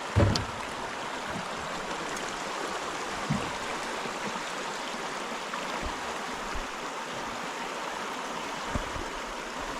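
Steady rush of flowing river water, with a few dull knocks, one near the start, one around three seconds in and one near the end.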